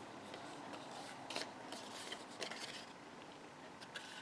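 Faint rustling and a few light clicks from cardstock being handled and set into a 1-inch circle paper punch.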